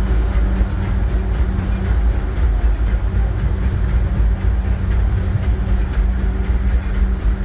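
Steady rumble of a narrow-gauge steam train's passenger car rolling along the track, heard from onboard, with a low hum that fades out about two seconds in and comes back near the end.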